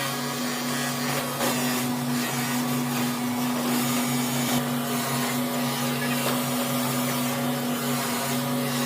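Factory machinery running steadily with a constant low electric hum and an even hiss, with a few faint clicks.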